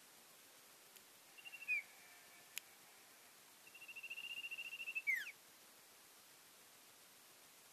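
Common iora (cipoh) calling: a short high trill ending in a falling note, then a longer trill ending in a sharp downward note, with a single click between them.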